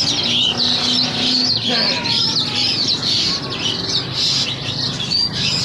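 Many caged songbirds chirping, twittering and squawking at once, a dense chorus of overlapping calls.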